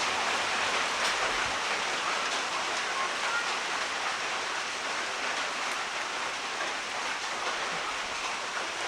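Heavy rain falling steadily, an even hiss of downpour. A low rumble underneath stops about a second and a half in.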